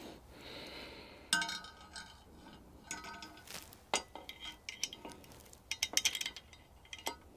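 Metal tools and engine parts clinking and knocking, with short ringing clanks about a second in, again near three and four seconds, and a quick run of clinks near six seconds.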